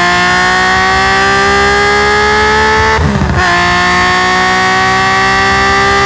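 Nissan S20 twin-cam straight-six in a Skyline 2000GT-R race car pulling hard under full throttle, its pitch climbing slowly. About three seconds in there is a quick upshift through the sequential gearbox: the sound breaks for a moment, the revs drop a little, and the engine pulls again.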